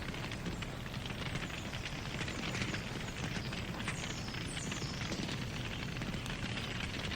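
Wood fire crackling steadily: a dense run of small pops and snaps over a continuous rushing hiss of burning wood.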